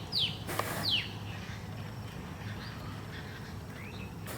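A bird calling in short, high notes that slide downward, two in the first second, then fainter calls later. There is a brief rustling burst about half a second in.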